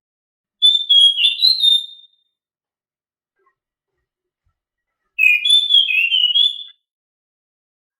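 Anis macan thrush singing: two short phrases of clear, loud whistled notes that step up and down, about half a second in and again about five seconds in, with silence between.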